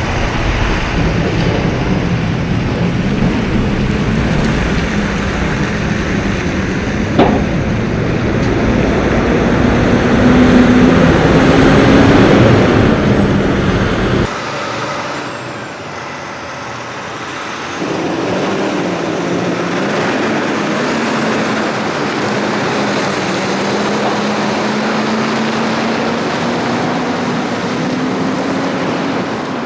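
Tractor-trailer's diesel engine pulling under load with road noise, its note slowly climbing and then dropping back as it runs up through the gears. A single sharp knock sounds about a quarter of the way in.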